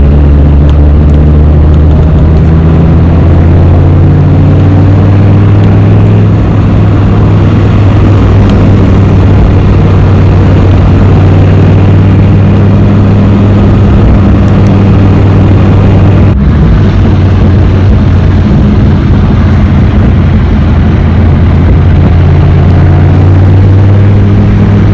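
2006 Dodge Viper SRT-10's 8.3-litre V10 running at low cruising speed, heard from inside the cabin as a loud, steady low drone whose pitch changes little.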